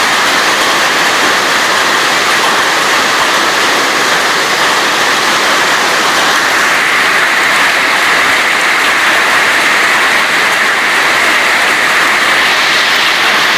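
Hail and heavy rain falling hard on roofs and ground during a hailstorm: a dense, steady rush of noise with no letup.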